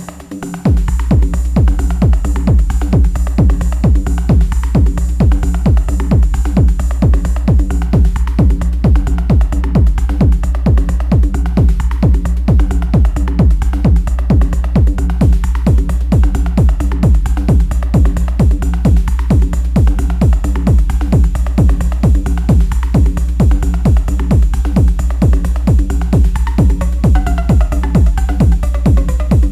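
Improvised techno played live on an Elektron Analog Rytm drum machine. A steady, heavy kick drum beat comes in about a second in under a sustained droning chord, with short falling sweeps repeating higher up.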